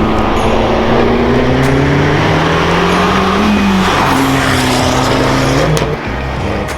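Abarth 595 Turismo's turbocharged 1.4-litre four-cylinder engine pulling under throttle, its revs climbing. There is a break about four seconds in, and then the engine sound drops off sharply as the throttle is released near the end.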